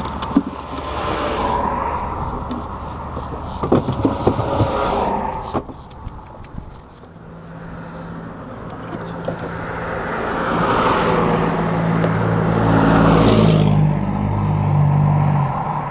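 A passing engine: a low steady hum that grows louder over several seconds, peaks near the end and then drops away.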